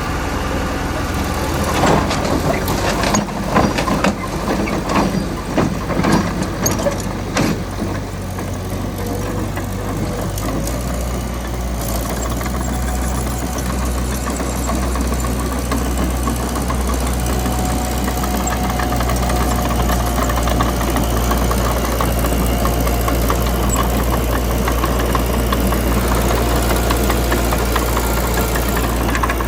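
Mitsubishi BD2 crawler bulldozer's diesel engine running with a knocking clatter. From about two to eight seconds in there are sharp metallic clanks and knocks. About ten seconds in the engine note changes and then holds steady.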